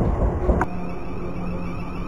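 Southern commuter train rolling past, a low rumble with wheels clicking over rail joints; its last coach passes with a sharp click about half a second in, after which the sound falls to a steadier, quieter hum.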